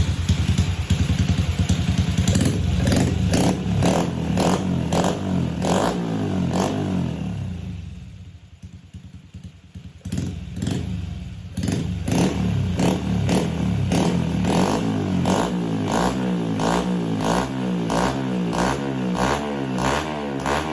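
Honda Wave 110i single-cylinder four-stroke engine running through an aftermarket straight-through exhaust, held at high revs at first, then falling away and nearly dying out for a couple of seconds before picking up again. From there it runs with sharp, regular pops about twice a second.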